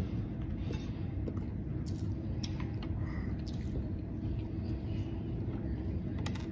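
A steady low rumble, with a few faint small clicks and mouth sounds as someone chews a mouthful of cooked ostrich egg.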